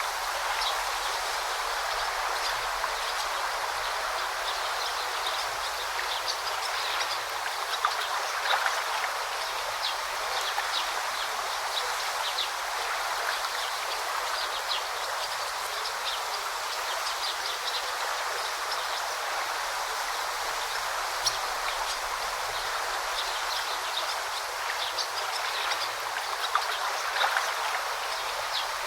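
A forest stream babbling steadily, with short high bird chirps scattered through it.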